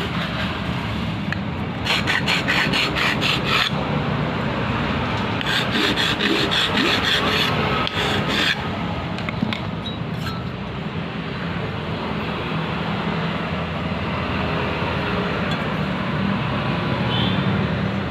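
Two bursts of rapid, evenly repeated scraping strokes, typical of filing or rasping metal, as on a ketinting propeller being worked, about two and six seconds in. A steady engine drone runs underneath.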